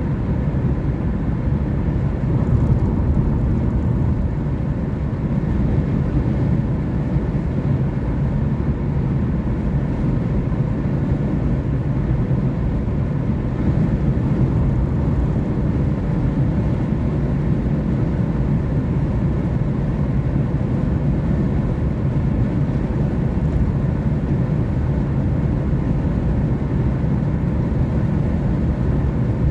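Car driving at a steady speed: an even, low noise of engine and tyres on the road, unchanging throughout.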